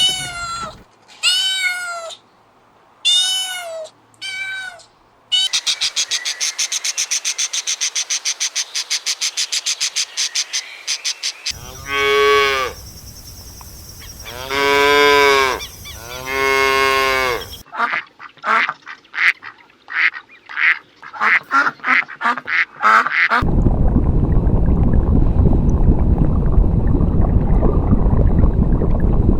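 A string of different animal calls one after another: a few pitched meow-like calls at first, then a fast run of rapid calls, three long drawn-out calls, a burst of short calls, and a rough noisy stretch over the last several seconds.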